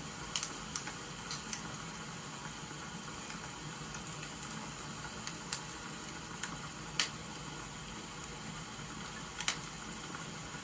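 Wood fire crackling, with sharp irregular pops over a steady hiss of rain.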